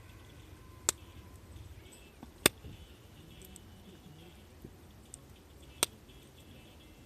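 Campfire crackling: burning wood gives three sharp pops, about a second, two and a half and nearly six seconds in, with a couple of fainter ticks between.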